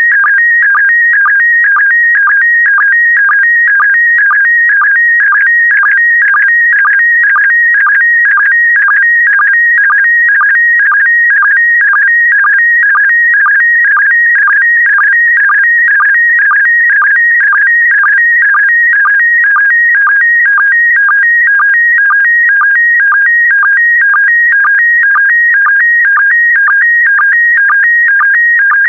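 Slow-scan TV (SSTV) image signal in PD120 mode: a loud, continuous, high warbling electronic tone whose pitch shifts with the picture being sent line by line, broken by a short sync pulse about twice a second.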